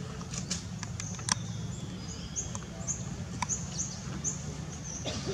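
A small bird chirps a run of about six short, high notes in the middle, over a steady low rumble and a few sharp clicks near the start.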